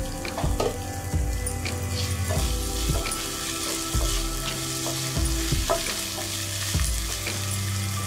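Chopped onions, tomatoes and green chillies sizzling in oil in a nonstick frying pan, with a spatula stirring and scraping the pan now and then, over background music.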